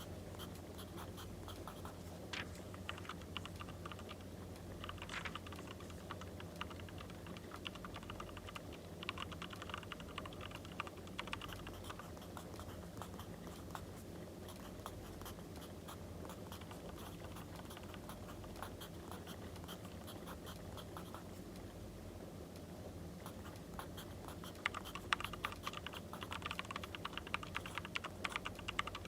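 Writing on paper in short bursts, the scratch and tap of pen strokes, busiest near the end. Underneath is a faint steady crackle of a wood fire.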